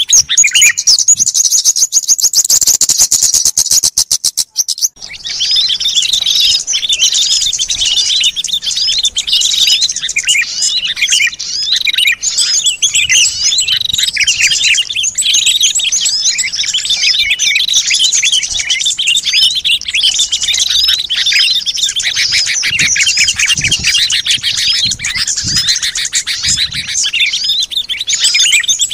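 A bird-lure recording of many small songbirds chirping and calling at once in a busy, overlapping chorus. It opens with a fast, high trill of rapidly repeated notes, which breaks off about five seconds in before the dense chirping takes over.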